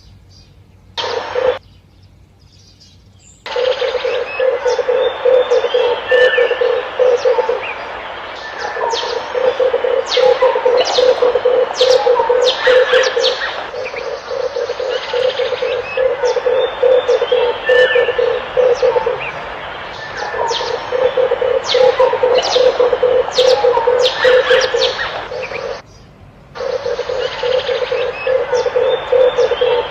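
Red turtle dove giving its rough, rapidly pulsed cooing in phrases of four to five seconds with short pauses between, over the chirps of small birds. The first three seconds are much fainter apart from one brief burst, and the sound drops out briefly about 26 seconds in.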